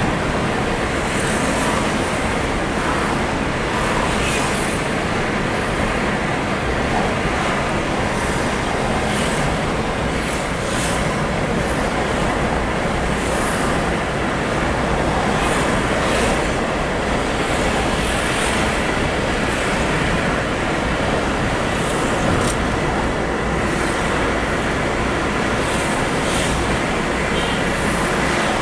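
Steady road noise of vehicles travelling: a continuous rumble and tyre hiss with faint rattles now and then.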